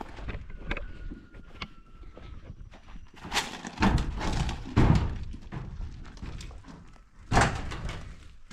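A series of knocks and thuds at uneven intervals, loudest about four to five seconds in and again near the end.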